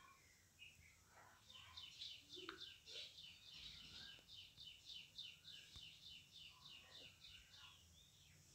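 Faint bird chirping: a quick, even run of high chirps, about five a second, starting about a second and a half in and stopping near the end, with a few scattered single chirps around it.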